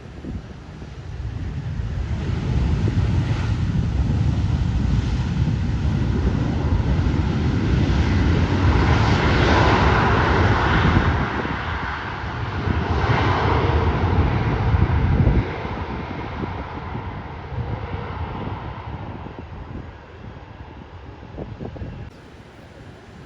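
An airliner's engines passing close by. The rushing engine noise builds, is loudest through the middle, drops abruptly a little past halfway and then fades away.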